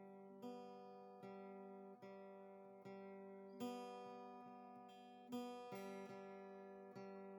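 Quiet background music: slow acoustic guitar chords, each struck about once a second and left to ring and fade.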